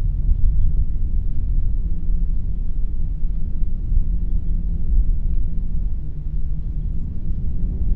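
Wind blowing, a steady low rumble with slight rises and falls and little hiss.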